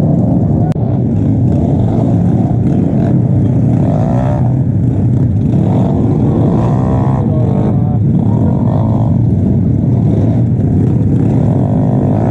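Suzuki Raider 150 underbone motorcycle's single-cylinder engine running under way, its pitch rising and falling several times as the revs change, over steady wind and road noise.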